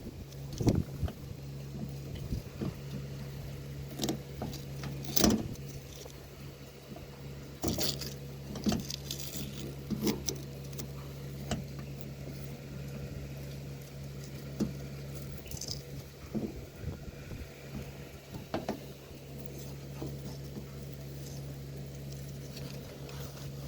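Masking being peeled and pulled off freshly painted tractor parts: scattered short crackles and rustles, over a steady low hum.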